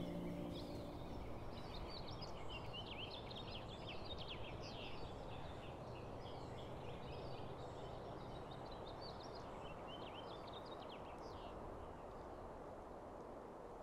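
Faint songbirds chirping over a steady background hiss of outdoor noise. The tail of a soft, ringing ambient music tone fades out in the first second.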